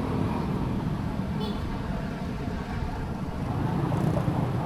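Low, steady outdoor rumble of city traffic mixed with wind on the microphone.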